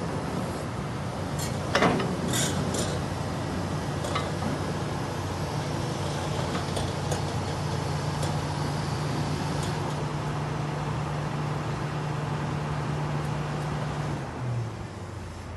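Kobelco excavator's diesel engine running steadily, with a few sharp metallic knocks in the first few seconds, the loudest about two seconds in. The engine note drops near the end as it slows.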